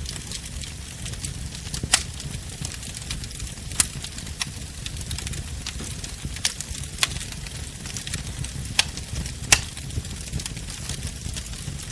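Wood bonfire burning, with a steady low rumble and hiss under sharp crackling pops every second or two. The loudest pop comes near the end.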